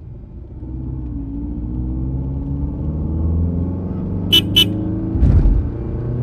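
A motor-vehicle engine running, its pitch drifting slowly up and down, with two quick high beeps about four seconds in and a low thump a second later.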